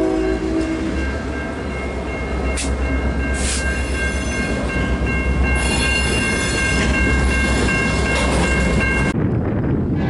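A train's horn chord sounding into the first second, then a passing train's steady rumble with a steady high-pitched whine over it and a couple of sharp clicks; the horn chord sounds again near the end.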